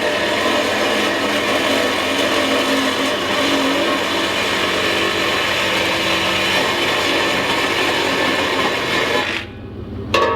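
A power saw cutting steadily, stopping abruptly about nine seconds in.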